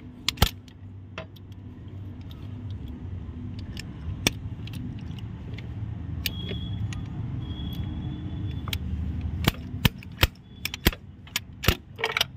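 Sharp metallic clicks and clinks of a puller tool being worked on a stuck fuel-injector nozzle of a Range Rover 5.0 engine, coming thicker and faster near the end, over a steady low hum.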